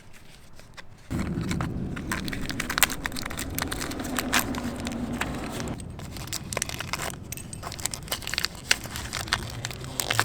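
Small plastic clips and parts being handled: many short clicks and crackles over a steady low rumble that starts suddenly about a second in.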